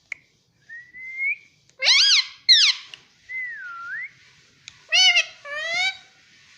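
Indian ringneck parrot whistling and calling. Clean whistled glides, one rising and one that dips and rises again, come between four short, shrill calls.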